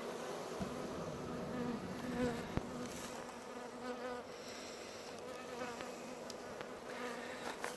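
Many honey bees from a freshly hived swarm buzzing around the hive: a steady drone with the pitch of single bees wavering as they fly past close by. A light click sounds about two and a half seconds in.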